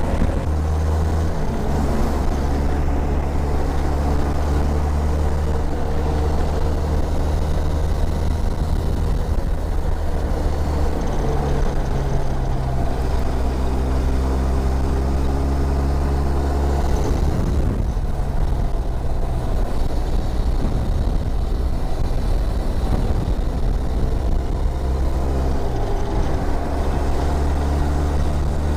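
Motorcycle engine running steadily under way at riding speed. Its note shifts a few times and dips and picks up again about two-thirds of the way through.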